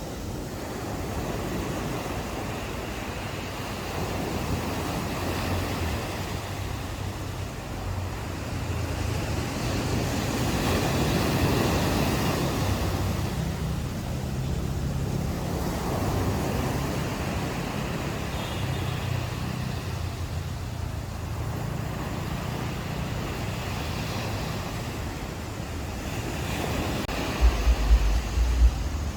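Ocean waves washing onto a shore, surging and receding in slow swells over a low steady rumble of surf. Near the end, wind buffets the microphone.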